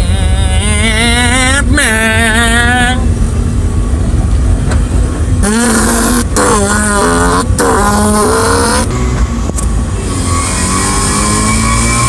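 First-generation Mazda RX-7's two-rotor rotary engine, heard from inside the car, accelerating hard: the engine note climbs, drops at each gear shift, and climbs again through the gears, then settles lower near the end.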